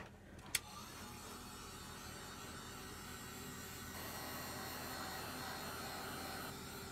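A sharp click, then a small electric appliance switched on, running with a steady hum and hiss.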